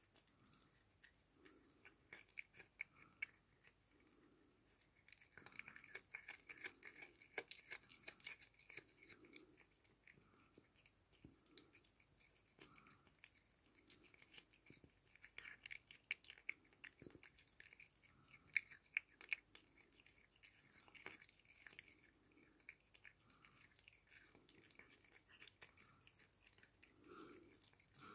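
A cat chewing on a mouse: faint, irregular crunching and small wet clicks as it bites through its prey.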